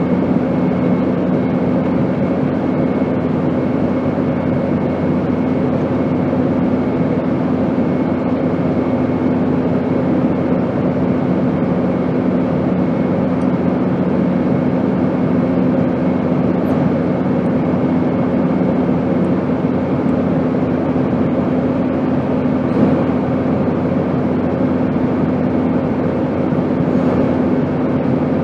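Airplane noise: an even, steady rush of engine and airflow noise with a constant low hum.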